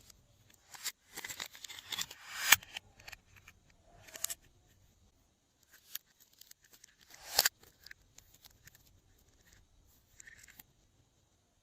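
Glossy slime being squished and stretched by hand: irregular sticky crackles and pops, loudest about two and a half and seven seconds in.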